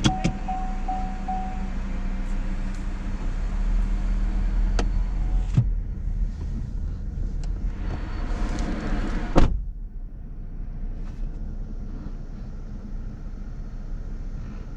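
A car running slowly at a car wash, with a steady low engine rumble and hum. A rushing hiss builds up and cuts off suddenly about nine and a half seconds in.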